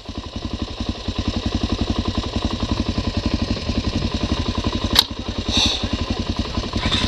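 Motorcycle engine idling with an even, rapid pulse, about eleven firings a second. A single sharp click comes about five seconds in.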